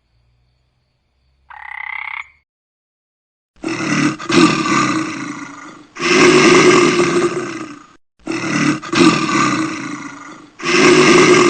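A large animal roaring: four loud, deep roars of about two seconds each, the second pair matching the first, after a short higher call about a second and a half in.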